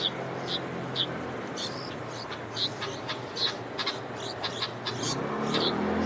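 Light-vented bulbul nestlings begging with short high chirps, about two a second, over a steady low hum of road traffic that swells near the end as a vehicle passes.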